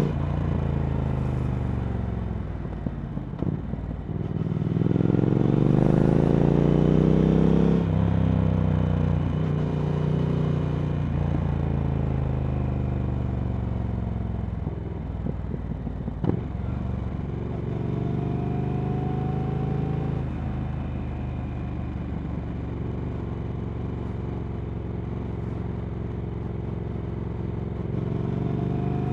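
Triumph Speed Twin 1200 parallel-twin engine through Vance & Hines slip-on exhausts while riding. The engine note drops as the throttle closes, climbs loudly as the bike accelerates, then falls back and settles into a steadier, lower cruise, picking up again near the end. One sharp knock about halfway through.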